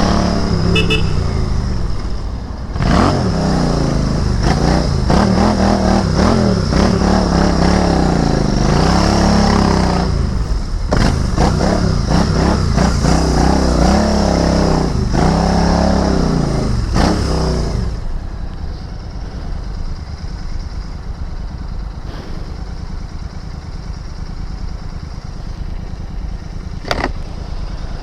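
Royal Enfield Interceptor 650's parallel-twin engine on the move, its pitch repeatedly rising and falling as it revs up and drops between gear changes. About 18 seconds in it settles to a lower, steady idle, and a single short click sounds near the end.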